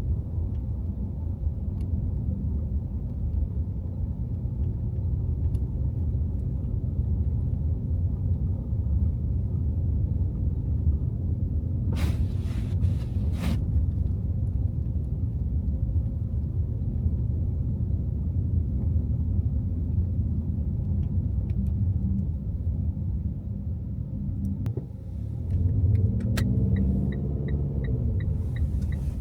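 Steady low road and engine rumble from inside a car driving on snowy city streets. A short hissing swish comes twice about halfway through, and near the end the engine note rises and falls while a regular ticking starts, about three ticks a second.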